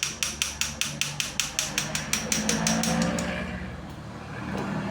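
Kawasaki VN1600 electric fuel pump being powered on the bench: a fast, even clicking about six times a second that stops about three seconds in, while the pump motor's low hum comes up and carries on. The pump had been seized by rust and deposits and is being run with cleaning fluid in it to free it up.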